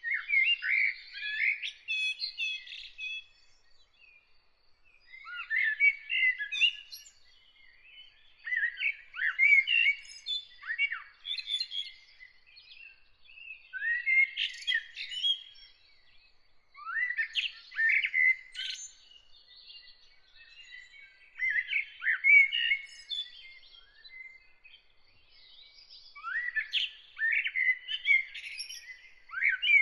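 A songbird singing in phrases of quick, varied notes, one to three seconds long, with pauses of a second or two between them. A faint, steady, high pulsing note runs behind it throughout.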